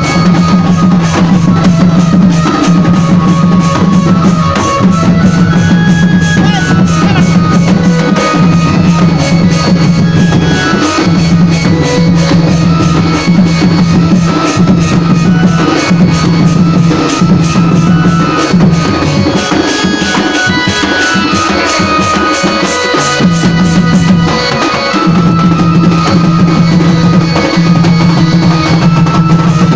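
Loud Sambalpuri dance music with a fast, steady drum beat and a heavy bass line. The bass drops out for a few seconds past the middle and then comes back in.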